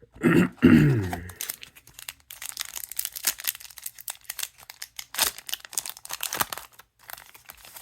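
A trading-card booster pack's wrapper being torn open and crinkled by hand, an irregular crackling rustle lasting several seconds.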